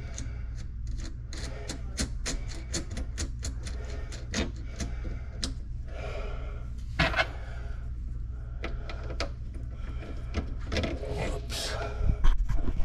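Quick runs of light clicks and taps from screws and small parts being worked by hand, with a few louder knocks and rustles near the end, over a steady low hum.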